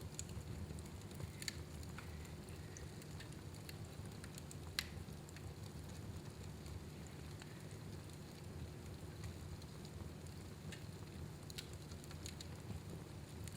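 Wood fire burning in a fireplace, crackling with scattered small pops over a low steady rumble; one sharper pop about a third of the way through.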